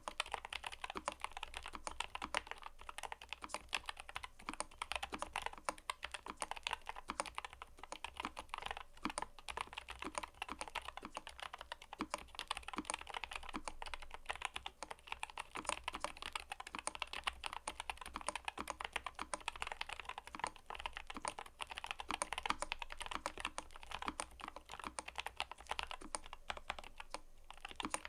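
Typing on a mechanical keyboard: a continuous, rapid run of key clicks.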